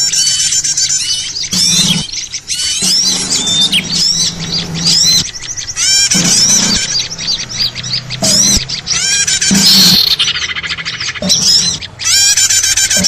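A dense, busy chorus of many small birds chirping and twittering over one another without pause: a 'noisy' lure recording ('suara ribut pikat') used to draw small birds in.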